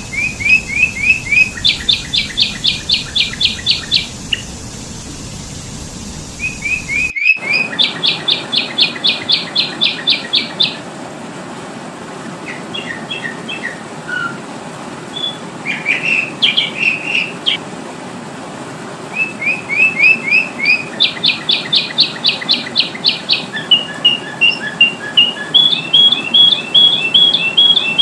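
Sooty-headed bulbul (kutilang) calls: repeated phrases of rapid, evenly spaced chirps, each phrase lasting a few seconds, with short pauses between them. About seven seconds in, the background hiss changes abruptly.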